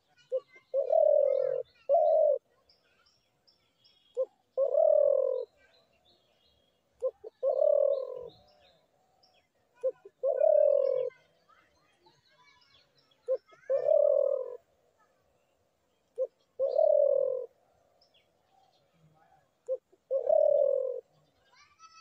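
Spotted dove cooing: a short note followed by a longer, slightly falling coo, repeated about every three seconds, eight times. Faint high chirps of small birds come in between.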